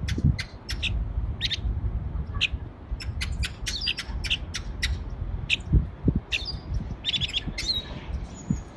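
Small caged songbird calling: a string of short, sharp high chirps at irregular intervals, with a quick run of notes about seven seconds in, over a low rumble.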